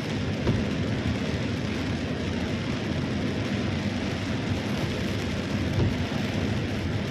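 Heavy rain falling steadily, a dense even downpour with a constant low rumble underneath.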